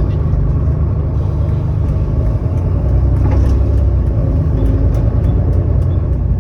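Volvo B7TL double-decker bus's inline-six diesel engine running under way, heard from on board as a deep, steady rumble with short rattling clicks from the bodywork. The exhaust is blown.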